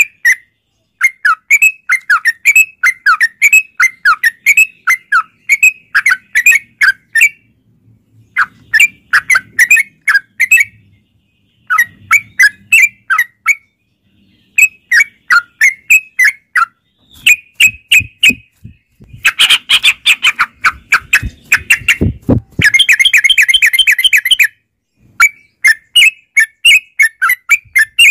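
Yellow-vented bulbul (trucukan) singing in quick, repeated phrases of bubbly chirping notes, each phrase lasting a second or two with short pauses between. A harsher, buzzier stretch comes about twenty seconds in.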